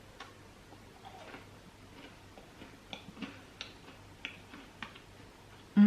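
Chewing a crunchy chocolate chip cookie: faint, irregular crunching clicks.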